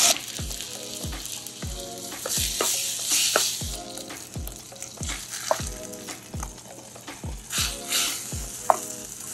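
Tomato wedges and scrambled egg sizzling in hot oil in a steel wok as they are stirred with a wooden spatula; the sizzle swells a few times, loudest at the start and again a few seconds in. Background music with a steady beat plays underneath.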